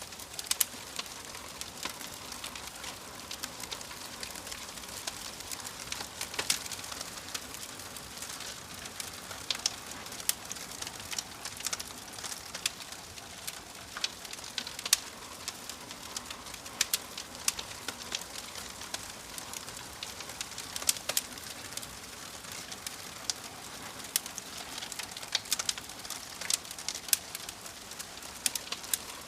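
Wood fire in a fireplace crackling: a steady hiss with frequent irregular sharp pops and snaps.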